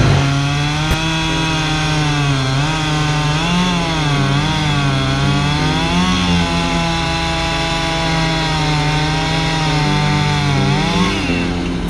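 Chainsaw running under load as it cuts through pine wood, its engine pitch dipping and recovering several times as the chain bites.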